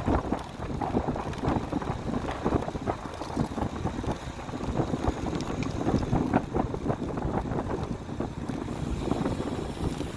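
Wind buffeting the microphone of a camera carried on a moving bicycle: an uneven, gusty rumble, with a brief high hiss near the end.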